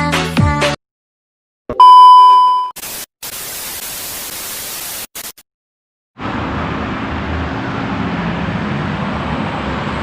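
Music cuts off, then a loud steady electronic beep sounds for about a second, followed by a burst of white-noise static hiss. After a brief silence, steady road traffic noise from passing vehicles begins about six seconds in.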